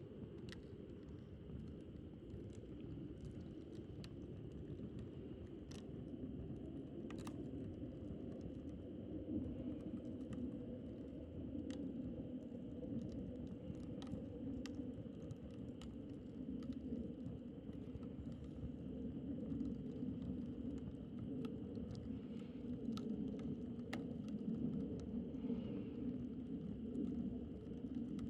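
Wood campfire burning, with a low steady rush of flame and scattered sharp crackles and pops from the burning wood.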